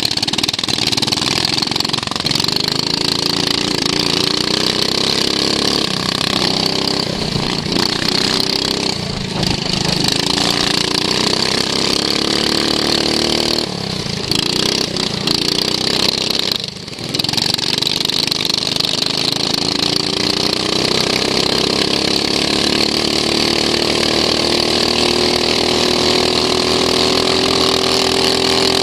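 Racing lawn mower's engine heard from onboard, revs rising and falling through a lap. It eases off briefly three times, around 9, 14 and 17 seconds in, then pulls steadily up to high revs near the end.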